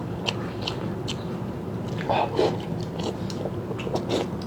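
Mouth noises of someone eating pork ribs: chewing with wet, scattered clicks and smacks, and a short voiced hum about two seconds in.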